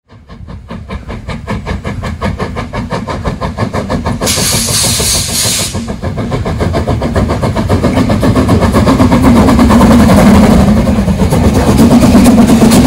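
Steam locomotive working hard, its exhaust beating in a rapid, even rhythm that grows louder, with a burst of steam hiss about four seconds in.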